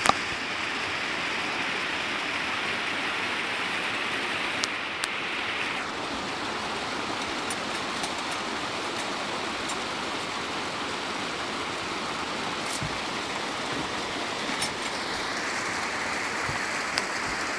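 Waterfall: falling water rushing steadily, with a few faint clicks.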